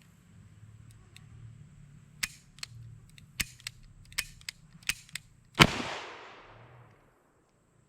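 A single loud revolver shot from a Smith & Wesson Model 66 .357 Magnum, about five and a half seconds in, with a long echoing tail. Before it comes a string of about eight quieter sharp cracks.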